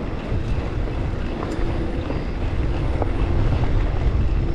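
Wind buffeting the microphone of a helmet-mounted GoPro on a mountain bike ride, a low rumble that builds over the first second and stays strong. A faint steady hum runs under it from about a second and a half in.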